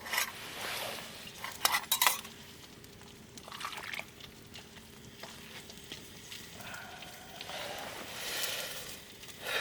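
Utensils clinking and scraping against a cooking pot and dishes, with a few sharp clinks about two seconds in.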